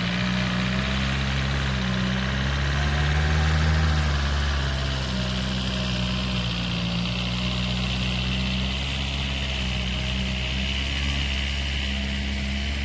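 Homemade tractor's engine running steadily, rising a little in pitch and loudness about three to four seconds in, then settling back.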